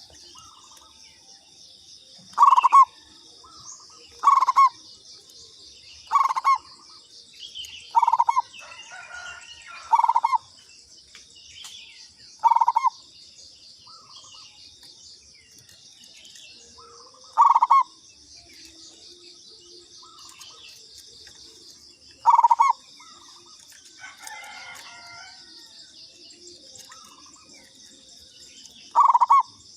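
Zebra dove (perkutut) singing: short, loud cooing phrases, about nine of them, coming every two seconds at first and then with longer gaps. A steady, high, pulsing buzz and a few faint chirps run behind.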